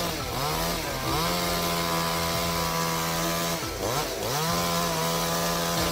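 Two-stroke chainsaw running at high revs, its pitch sagging and recovering twice, just after the start and again a little before halfway through.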